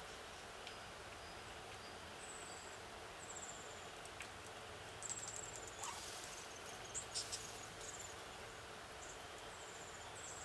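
Faint outdoor ambience with short, very high-pitched chirps that repeat from about two seconds in, and a cluster of sharp clicks around the middle.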